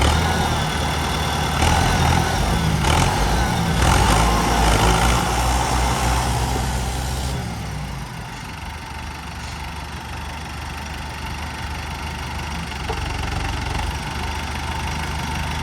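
Tractor diesel engine running hard, then dropping off about seven seconds in to a quieter, steady idle.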